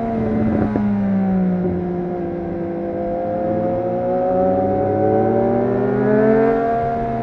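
Triumph Street Triple RS inline-three engine through a Yoshimura exhaust, riding under way. The engine note drops about a second in, climbs steadily for a few seconds, then falls again near the end.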